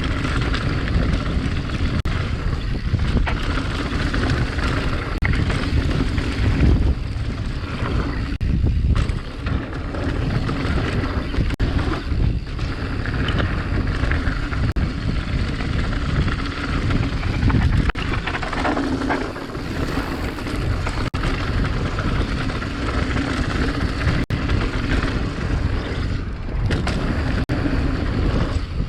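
Wind buffeting a GoPro's microphone, over the steady rumble and scattered clicks and rattles of a mountain bike riding down a dirt trail.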